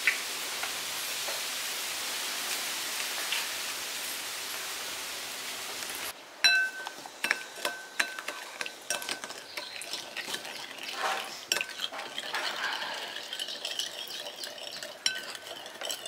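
Steady sizzling of corn fritters frying in oil, which stops abruptly about six seconds in. After that, metal utensils clink repeatedly against dishes, the clinks ringing briefly.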